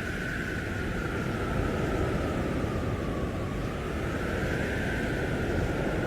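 Blizzard wind blowing hard and steadily, with a howling whistle over the rush that sinks slightly about three seconds in and rises again near the end.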